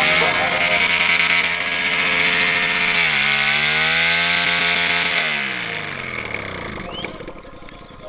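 High-revving motorcycle engine buzzing loudly. Its pitch drops suddenly about three seconds in, climbs again, then falls away as it fades out near the end.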